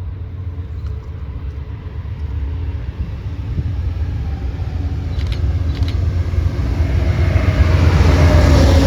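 An approaching train, its low rumble growing steadily louder.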